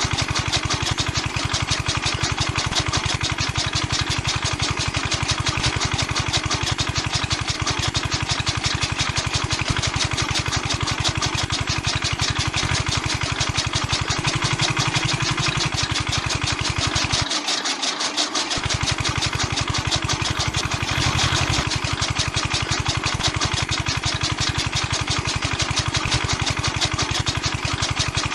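A small machine running steadily with a fast, even, engine-like pulse. The deep bass cuts out for about a second around the middle.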